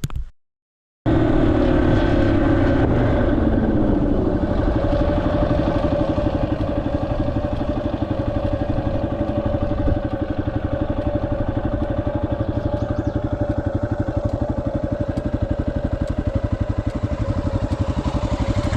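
Yamaha XT250's single-cylinder four-stroke engine running under way, heard from on the bike. It starts suddenly about a second in, its note drops over the next few seconds, then it runs steadily.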